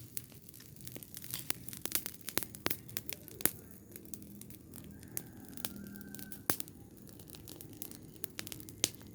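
Burning rubbish crackling, with irregular sharp pops and snaps over a low steady rumble.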